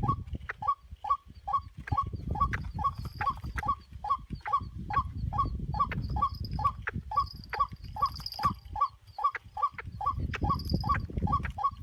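White-breasted waterhen calling: a long, even series of short, repeated croaking notes, about three to four a second, with a low rumble underneath.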